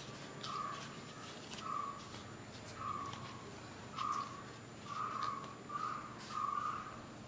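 A bird calls over and over in the background, short, slightly falling calls about once a second. Banana leaves are peeled open from the steamed parcels with a faint crinkle.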